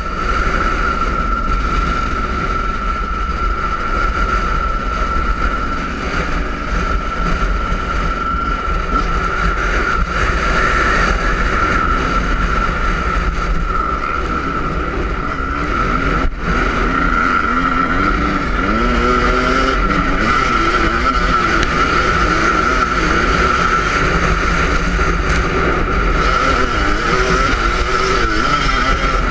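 Yamaha YZ250 two-stroke motocross engine being ridden hard, its pitch rising and falling over and over with the throttle and gear changes, heard from an on-board camera. Heavy wind rumble on the microphone throughout.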